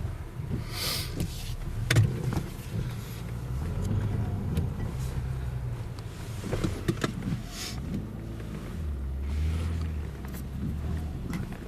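Car engine running under load as a car drives out through deep snow, its note rising and falling with the throttle, with a few brief hissing gusts on top.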